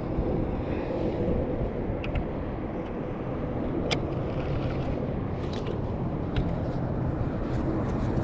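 Steady low mechanical rumble with faint steady tones, like engine noise, with a few sharp clicks scattered through.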